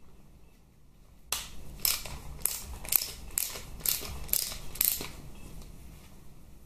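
Hand ratchet clicking in a run of about eight short strokes, roughly two a second, starting about a second in and stopping near the end, as it works an Allen-head screw on the gearbox oil pan.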